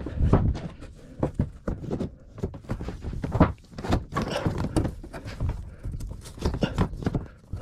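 Irregular knocks and thuds of plywood ceiling panels being handled and fitted, with one louder knock about halfway through.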